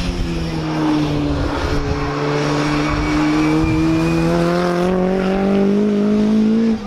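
BriSCA F2 stock car's engine running hard, its pitch rising steadily as the car accelerates, then dropping abruptly near the end.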